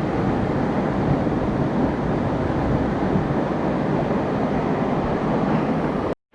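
Steady, loud rushing of a waterfall, an even wash of water noise with no pauses, cutting off abruptly near the end.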